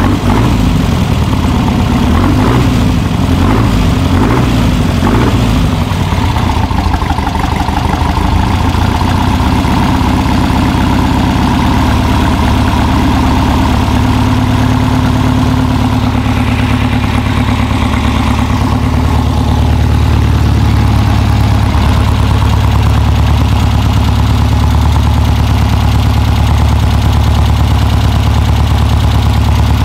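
Baja Bug engine fed by twin 36 mm Dell'Orto carburettors, running loud and a little uneven for the first few seconds, then settling into a steady idle.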